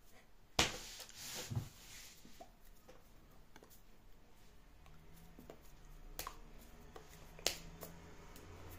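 Several sharp knocks and clicks with quieter taps and handling noises between them, the loudest about half a second in and again near the end, over a faint low hum.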